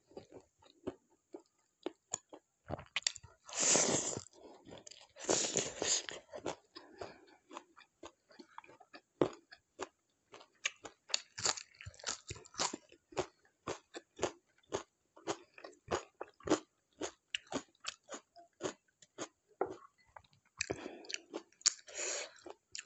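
Close-miked eating of chatpate, the crunchy Nepali puffed-rice snack: two loud crunching bites a few seconds in, then steady chewing with short mouth clicks, about two to three a second.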